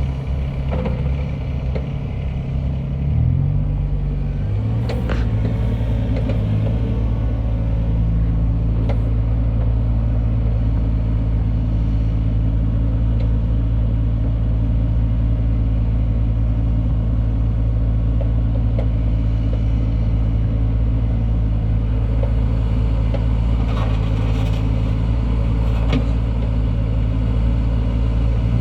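John Deere 26G mini excavator's diesel engine running, the revs stepping up about three to four seconds in and then holding steady, with a few sharp knocks along the way.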